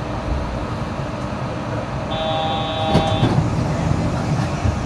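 Yurikamome train running, a steady rumble and noise. About two seconds in, a brief electronic tone sounds for about a second, followed by a knock.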